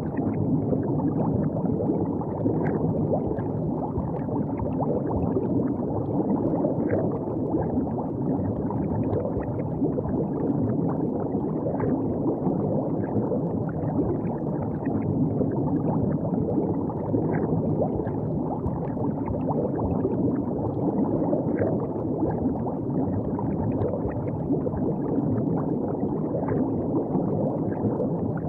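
River water flowing and gurgling along the bank: a steady low rush, flecked with small splashes.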